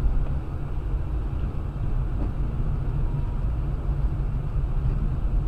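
Steady low rumble of a car driving, as picked up by a dashboard camera: road and engine noise with no impacts.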